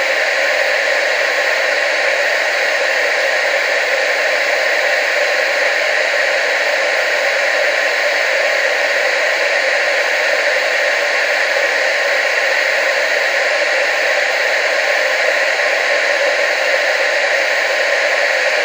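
Steady TV static hiss, an even, unbroken rush of noise with no lows, strongest in the middle and upper range.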